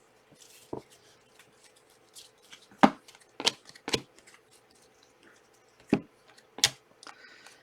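Trading cards being handled and flipped through: about half a dozen sharp clicks and snaps of card stock spread over a few seconds, with faint rustling between.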